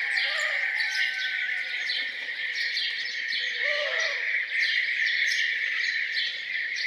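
Morning chorus of birds singing: many quick, falling chirps over a steady high buzz, with a low hooting call near the start and twice more about four seconds in.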